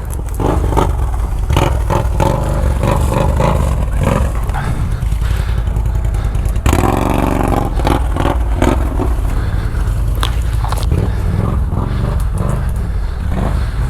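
ATV engine running under load over rough ground, with repeated knocks and scrapes as the machine jolts over rocks.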